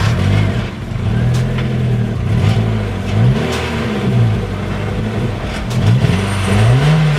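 Kia car engine with its muffler removed, revved in a series of short blips, the pitch climbing and dropping back about six times.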